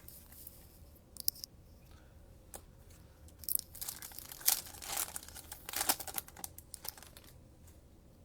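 A trading card pack's plastic wrapper being torn open and crinkled in the hands, a dense stretch of crackling that peaks twice near the middle.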